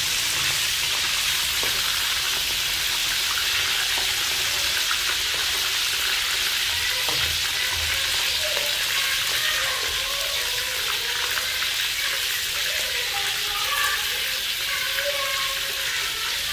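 A whole frog sizzling steadily as it fries in oil in a wok, with a metal spatula scraping and turning it now and then.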